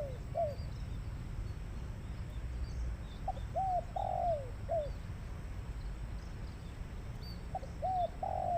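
Spotted dove (tekukur) cooing as a lure call: a phrase of short notes, a longer note and a falling last note, repeated about every four seconds. One phrase is ending as the sound begins and another starts near the end. Faint high chirps of small birds and a low rumble run underneath.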